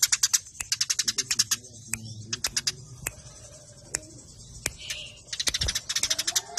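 Eurasian tree sparrows chirping in fast, tightly packed runs of short sharp chirps, the rapid-fire chatter of sparrows fighting. The runs break off and thin to a few scattered chirps in the middle, then start again densely near the end.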